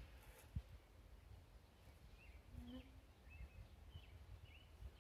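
Near silence with a faint low rumble; a single soft knock about half a second in, then faint short bird chirps repeating roughly twice a second from about two seconds in.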